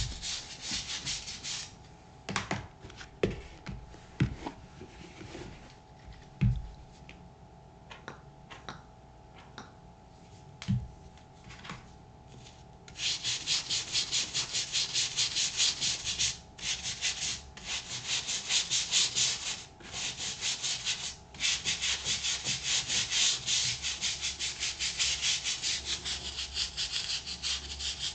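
A brush scrubbing a boot's rubber outsole in rapid back-and-forth strokes. The strokes stop for about ten seconds early on, when only a few sharp knocks and taps are heard, then start again and keep going with a few short breaks.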